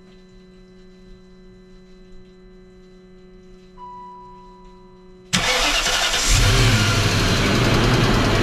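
Faint steady hum and a short beep, then the BMW X5 4.4i's M62 V8 cranks and starts about five seconds in and runs, getting louder a second later. The owner suspects a worn connecting-rod bearing in this engine.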